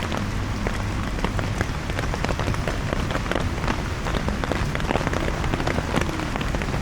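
Heavy rain falling on an umbrella overhead: a steady hiss dense with separate drop hits.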